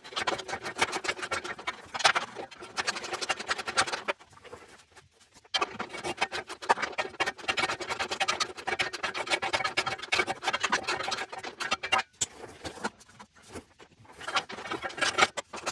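Ratchet wrench clicking fast as a 13 mm frame bolt is worked, in two long runs with a short pause between them.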